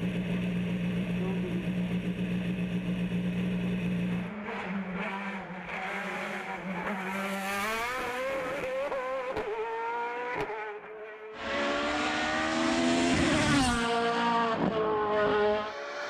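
Race car engine on a hill climb, revving up and dropping back through several gear changes, with two sharp cracks around nine and ten seconds in. It comes back louder about eleven seconds in, and its pitch falls near fourteen seconds. A steady low hum fills the first four seconds.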